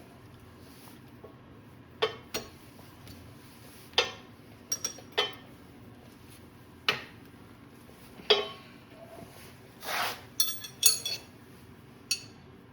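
Metal tools and parts clinking and knocking as they are handled and set down: about a dozen sharp, ringing strikes at uneven intervals, with a quick flurry of them a little after the middle.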